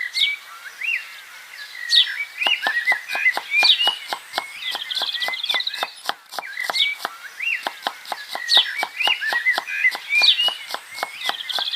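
Small birds chirping and twittering, with short whistled notes over a steady run of sharp clicks, about four a second. The same six-second stretch plays twice, as in a looped recording.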